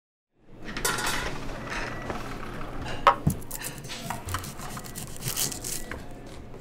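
Kitchen clatter starting about half a second in: a chef's knife chopping on a cutting board among clinking dishes, pans and utensils, with many sharp knocks and one louder knock a little after three seconds.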